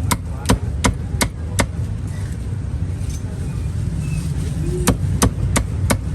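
Cleaver chopping on a cutting board: five sharp chops in quick succession, a pause, then four more near the end, over a steady low rumble.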